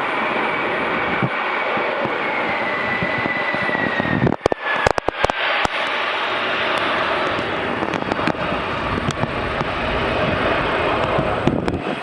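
Jet airliner engines at high power as the aircraft passes, a steady roar with a thin whine that slides down in pitch over the first few seconds. A cluster of sharp crackles comes about four to six seconds in.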